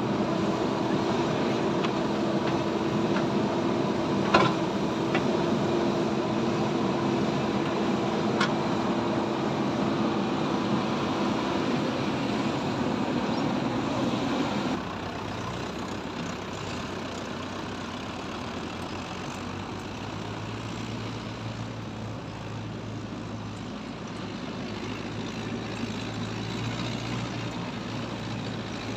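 Diesel farm tractor engine running steadily under load. About halfway through it drops abruptly to a quieter, lower hum. There is one sharp knock about four seconds in.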